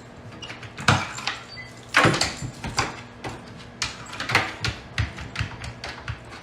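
A series of irregular knocks and clicks, some louder than others, over a faint steady hum.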